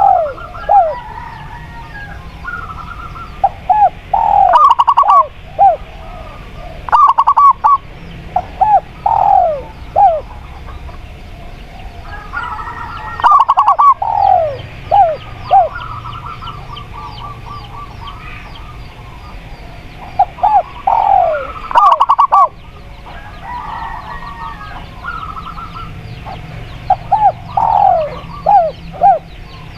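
Doves cooing in repeated phrases of short, falling notes, a phrase every few seconds, over fainter chirping of other birds. A few sharp clicks fall between the phrases.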